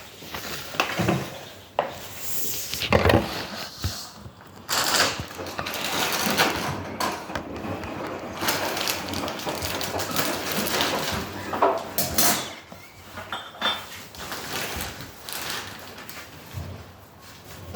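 Whirlpool washing machine running, with irregular knocks, clatter and rattling from the machine.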